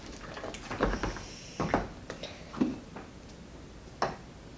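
Slime being mixed in a bowl: a few scattered soft clicks and knocks about a second apart.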